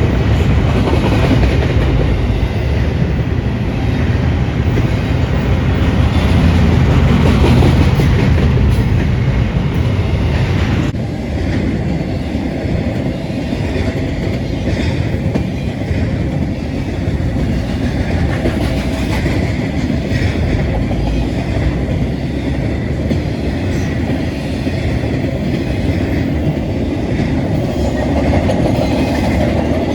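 A train rolling past on the track, its cars making a loud, steady rumble and clatter, with an abrupt change in the sound about eleven seconds in.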